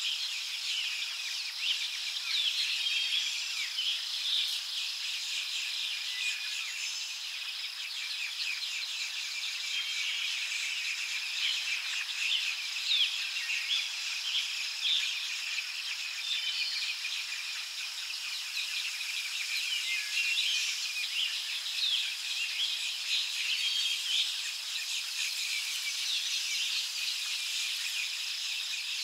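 Small birds chirping and calling in many short notes over a continuous high-pitched insect drone.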